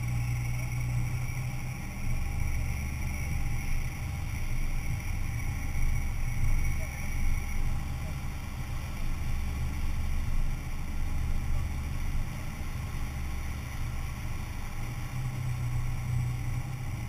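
Four-wheel-drive SUV engine running steadily at low revs: a deep, even hum with fainter steady tones above it.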